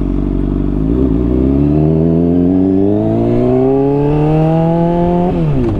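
Honda CBR600RR inline-four engine through a slip-on exhaust, accelerating. After about a second of steady running, the pitch climbs smoothly for about four seconds, then drops sharply near the end.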